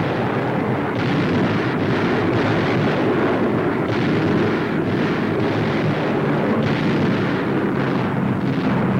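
Bombing-raid sound on an old newsreel soundtrack: a continuous, dense rumble of explosions and gunfire, with occasional sharper hits.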